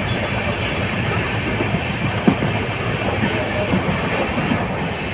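Steady rumble of a moving express passenger train, with wheels clicking and knocking over the rail joints; one sharper knock about two seconds in.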